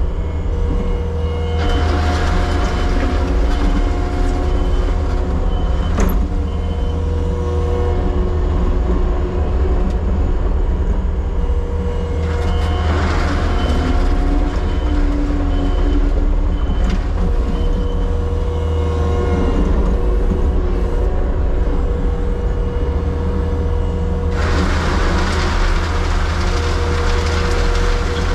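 Diesel engine of a compact excavation machine running steadily with a deep rumble and a steady whine. Louder rushing spells come about every ten seconds as the machine works.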